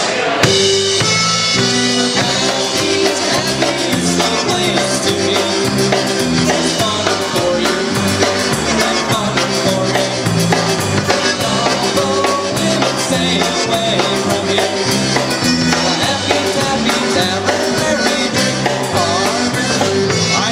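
Live polka band playing the instrumental introduction to a polka, with drums and bass keeping a steady beat.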